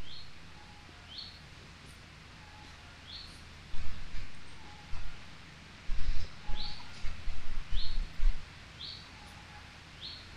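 A songbird repeating a short high call about once a second, with a fainter lower note between calls. Irregular low thumps and rumbles come and go from about four seconds in and are the loudest sounds.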